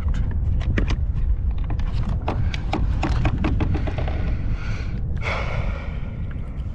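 Wind rumbling on the microphone, with many irregular sharp clicks and knocks over the first few seconds. A short rushing hiss follows about five seconds in.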